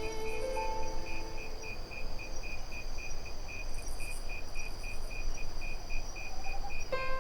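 Crickets chirping in a steady, even pulse of about three chirps a second over a constant high insect trill. The last notes of a waltz fade about a second in, and music comes back in near the end.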